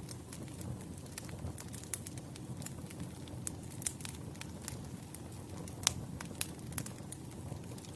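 Wood campfire burning: a steady low rush of flames with irregular sharp crackles and pops from the burning logs, one louder pop about six seconds in.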